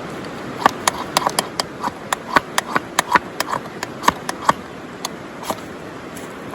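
Wood fire crackling: a cluster of irregular sharp pops and snaps over a steady hiss, thinning out after about five seconds.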